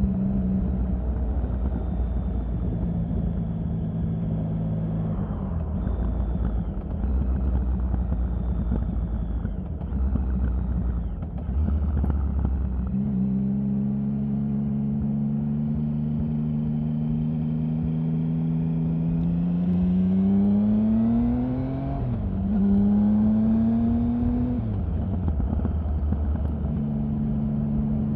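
Triumph Sprint 1050's three-cylinder engine running under way: a steady note for a while, then revving up twice in the second half, with a sudden drop in pitch between the two climbs, as on an upshift, before settling back to a steady note.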